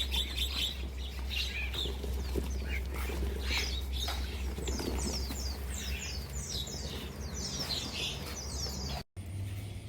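Many small birds chirping together in a dense flurry of short, falling chirps, over a steady low hum. The sound cuts off abruptly near the end.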